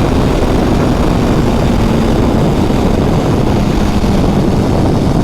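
Kawasaki Ninja H2 motorcycle riding at speed: heavy wind roar on the helmet microphone over the engine, which holds a steady note that drops slightly in pitch partway through.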